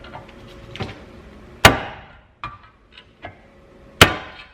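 Hammer blows knocking the old front seal out of a small-block Chevy timing chain cover: two hard strikes about two and a half seconds apart, each ringing briefly, with a few lighter knocks between.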